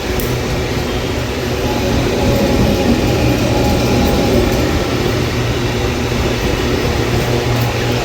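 Train moving through the station: a steady rumble of wheels and running gear with a low hum, growing louder about two seconds in and then holding steady.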